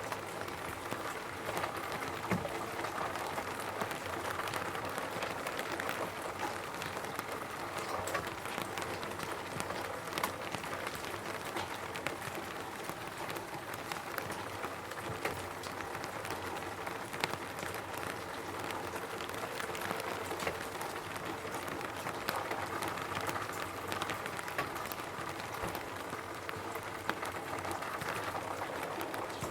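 Rain falling on a roof: a steady wash of rain with many separate drop hits ticking through it.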